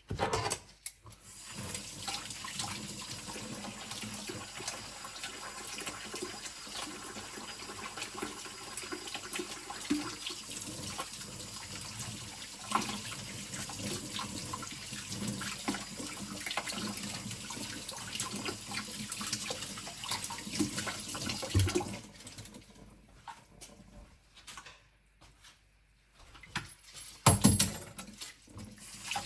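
Kitchen tap running into a sink, the water splashing over knives and shears as they are rinsed. The water stops about three quarters of the way through. Quieter handling sounds follow, with a short loud clatter near the end.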